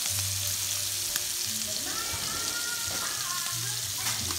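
Sea scallops searing in hot butter and oil in two frying pans, a steady sizzle as they brown and caramelize on the first side. A wooden kitchen drawer is pulled open near the end.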